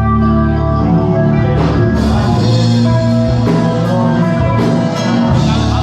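Live rock band playing loud: sustained bass and guitar chords, with sharp drum and cymbal hits coming in at a steady beat about a second and a half in.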